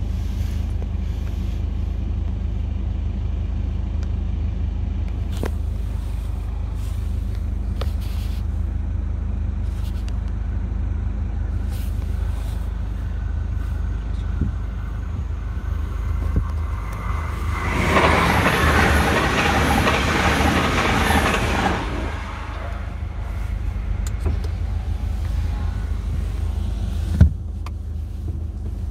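A steady low idling hum, with a five-carriage diesel passenger train rushing past the level crossing for about four seconds, starting about 18 seconds in. A single sharp click comes near the end.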